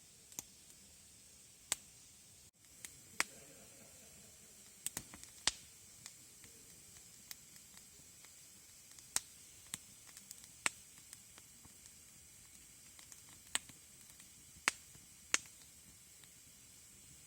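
Wood campfire crackling: irregular sharp pops and snaps over a steady faint hiss.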